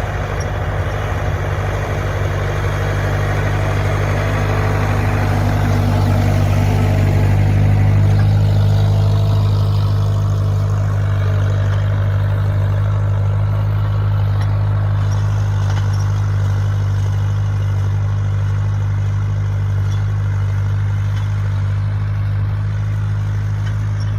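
Mini tractor engine running steadily at a constant speed.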